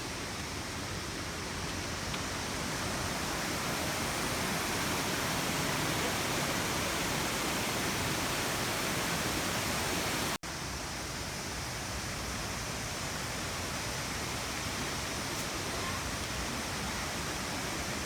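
Waterfall: a steady rush of falling water. It drops out for an instant about ten seconds in, then resumes slightly quieter.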